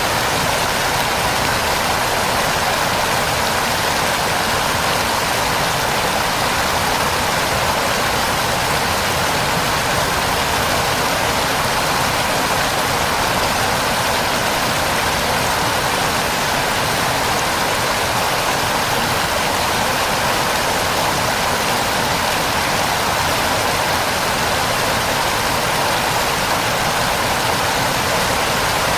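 Waterfall pouring: a steady, loud rush of falling water with no break or change.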